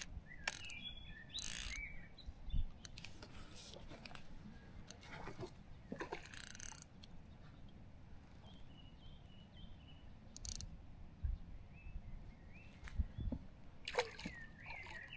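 Birds chirping in short, high calls, some in quick runs of repeated notes, over a faint outdoor rumble with a few brief rustling bursts.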